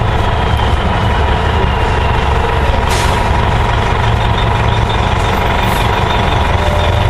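Gillig Phantom transit bus's diesel engine running steadily with a steady whine, and a brief hiss about three seconds in.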